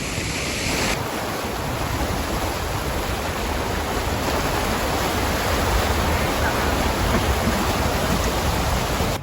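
Heavy rain pouring down, a steady dense hiss, with a slight shift in its sound about a second in.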